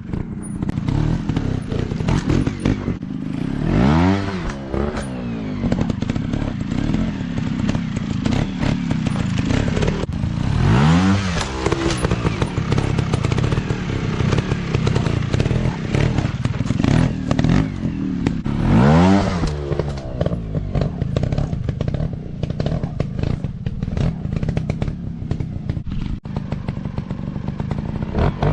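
Dirt bike engine running with a steady crackle, opened up sharply about three times, each rev rising and falling in pitch.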